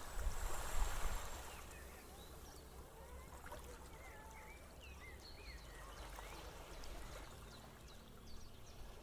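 Quiet seaside ambience: soft surf washing, louder in the first second or so, with faint high chirps of small birds scattered through.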